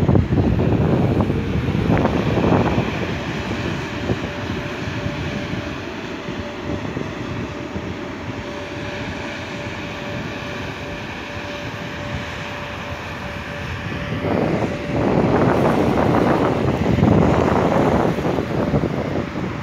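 VR Sr1 electric locomotive hauling a freight train past, a steady rumble with a thin steady whine above it. A louder rush of noise comes in near the end.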